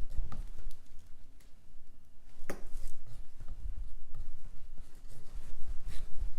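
White acrylic base coat being spread over a painting board with a tool: irregular scraping and light tapping against the board, with one sharp click about two and a half seconds in, over low handling rumble.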